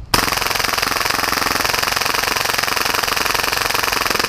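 Full-auto Tokyo Marui Hi-Capa airsoft pistol, tuned to about 30 rounds per second and run on high-pressure air at 120 PSI, firing one long continuous burst that starts just after the opening: a fast, even rattle of shots.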